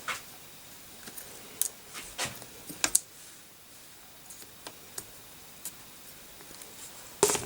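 Irregular small clicks and taps, as of hands handling hardware and tools, with a few sharper ones about two to three seconds in and a louder cluster near the end.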